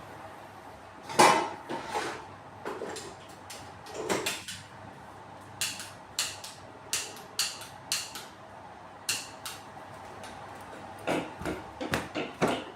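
A series of sharp clicks and knocks from small hard objects being handled and set down, irregular and about a dozen in all, over a faint steady hum.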